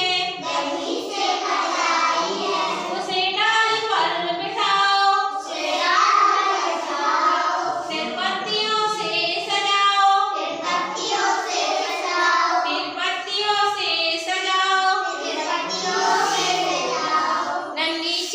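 Child's voice singing a Hindi nursery rhyme, a continuous sung melody with no pauses.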